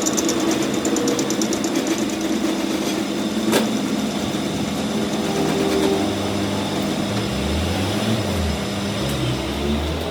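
Workshop machinery running with a steady motor hum, and a single sharp knock about three and a half seconds in.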